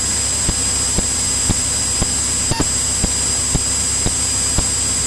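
Steady in-flight cabin noise of a Cirrus single-engine piston aircraft, an even hiss with a faint high whine and a light tick about twice a second.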